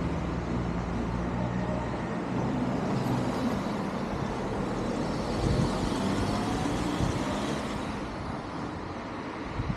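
A motor vehicle's engine running, with a steady low engine note for the first two seconds giving way to a continuous hiss of wind and road noise.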